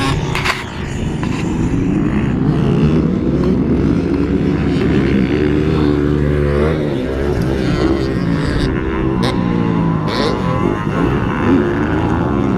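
Motocross dirt bike engine revving hard on the track, its pitch climbing and dropping again and again with throttle and gear changes.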